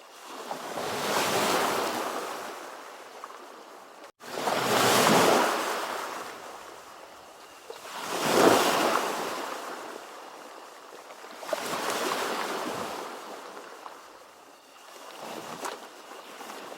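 Ocean waves breaking and washing in, five swells of surf about every three and a half seconds. There is a momentary dropout a little after four seconds in.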